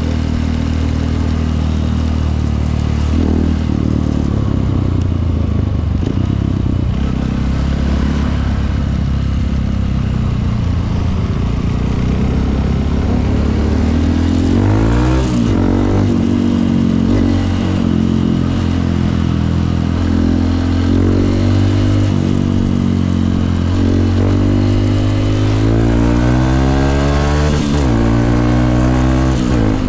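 Honda CRF150L's single-cylinder four-stroke engine running on the road. Its note holds fairly steady for the first half, then several times in the second half it climbs and drops as the bike accelerates and shifts gear.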